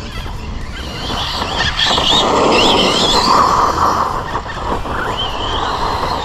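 Team Associated Rival MT10 RC monster truck's brushless motor whining on 3S power, its pitch rising and falling with the throttle, over a steady rush of tyre and wind noise.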